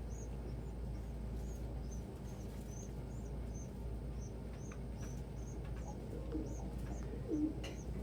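High, thin bird chirps repeating about twice a second throughout, with a pigeon's low coos near the end.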